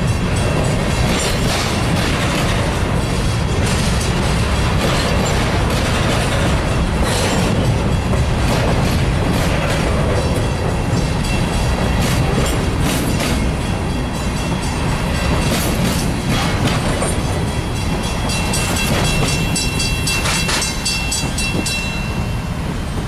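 Empty grain hopper cars rolling past close by: a steady rumble with the wheels clicking over the rail joints. The sound eases slightly near the end as the last car goes by.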